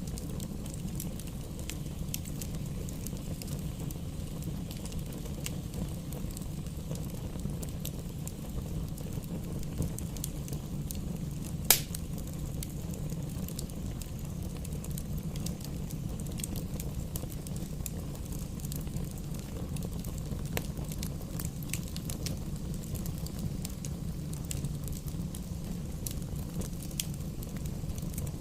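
Wood fire burning in a fireplace: a steady low rumble of flames with scattered crackles of the firewood, and one loud pop a little before the middle.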